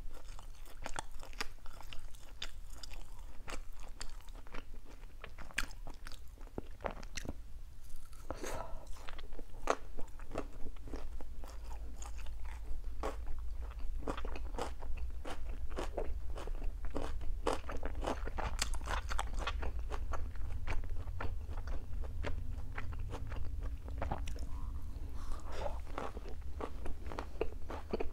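Close-miked chewing of grilled beef and bell-pepper skewer pieces: irregular wet crunches, smacks and mouth clicks, with no pauses.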